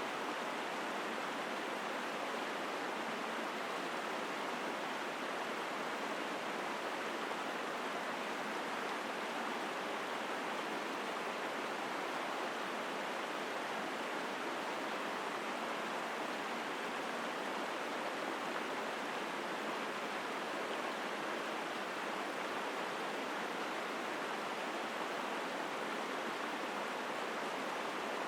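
Mountain stream rushing over rocks: a steady, strong flow of water with no changes.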